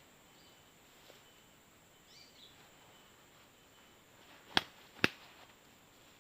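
Two sharp clicks about half a second apart, a little past the middle, over a faint outdoor background with a steady high-pitched hum and a brief chirp about two seconds in.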